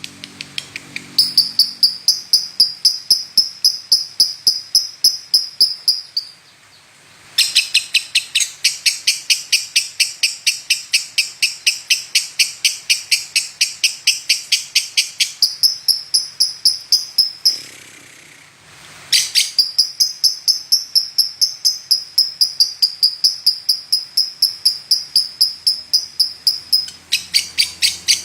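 Lovebird singing a long, fast run of high repeated chirps, about three a second, broken by two short pauses.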